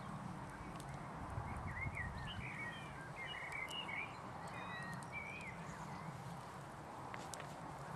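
Small birds chirping, a flurry of short twittering calls in the first half, over a steady low outdoor background rumble, with a few faint clicks near the end.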